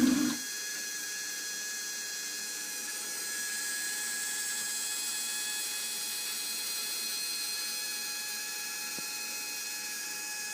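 Model V8 engine running, then cutting off abruptly in the first half-second. A steady high-pitched electric whir carries on after it.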